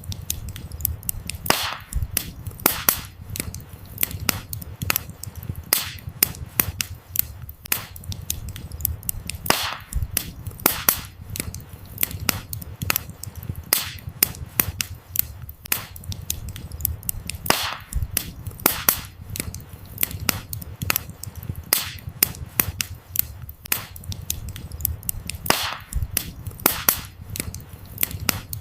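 Wood fire burning, with dense, irregular crackles and sharp pops of firewood over a steady low rumble of the flames.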